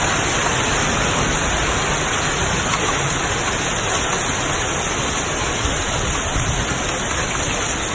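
Heavy rain and hail pouring down steadily on a street, a dense even hiss of falling precipitation.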